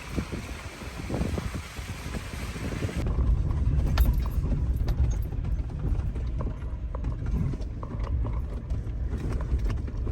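A vehicle driving slowly over a rough dirt road, heard from inside: a low rumble with many small knocks and rattles. For the first three seconds a broad hiss lies over it, then cuts off abruptly.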